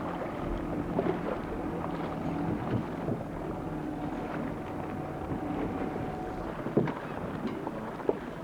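A boat's engine humming steadily, with wind buffeting the microphone. The hum fades out about three seconds in and comes back, and a few sharp knocks sound, one near the end.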